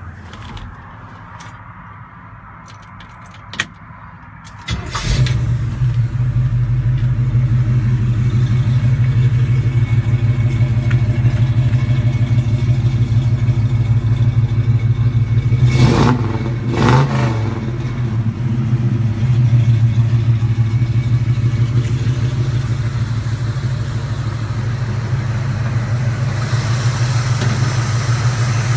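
Chevrolet C10 truck's engine starting suddenly about five seconds in after a few clicks, then running steadily at idle, with two brief louder moments about halfway through.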